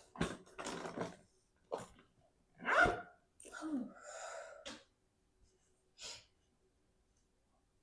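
Short, breathy bursts of a person's voice for the first few seconds, one more brief burst, then quiet.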